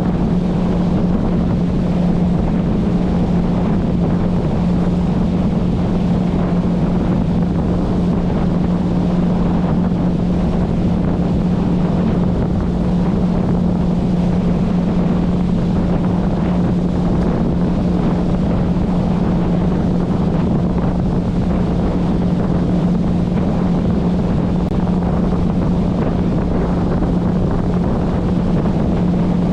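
Motorboat engine running at a steady speed, a constant low hum, with heavy wind buffeting the microphone.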